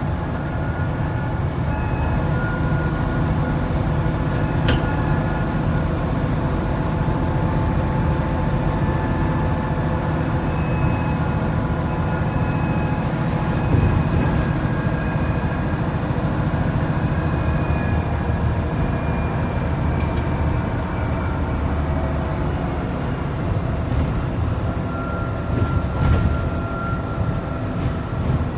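Scania N94UD double-decker bus's DC09 diesel engine running steadily under way, with faint whining tones that slowly shift in pitch. A sharp click about five seconds in and a short hiss about halfway through.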